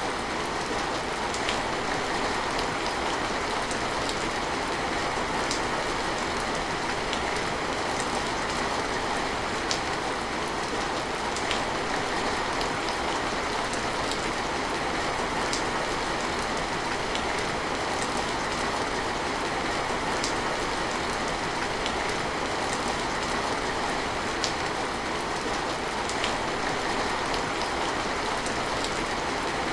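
Steady rain falling, an even hiss with scattered sharper drips of single drops landing close by.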